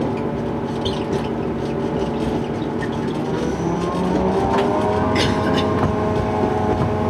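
Diesel railcar engine running, its pitch rising about three and a half seconds in as the train picks up speed, then holding steady at the higher note.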